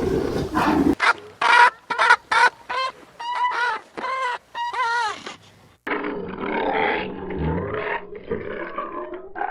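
Farm animal calls. After about a second comes a run of about ten short, pitched calls from fowl, each rising and falling. Near the six-second mark it cuts to a rougher, lower animal sound.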